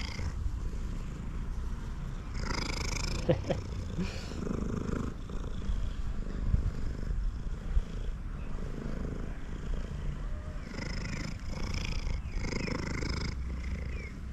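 Male cat purring loudly and steadily, with a few soft clicks and short rustles over the purr.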